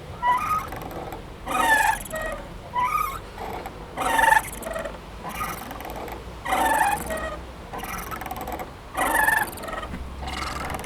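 Playground swing squeaking as it swings back and forth, with a louder squeak about every two and a half seconds and fainter ones in between.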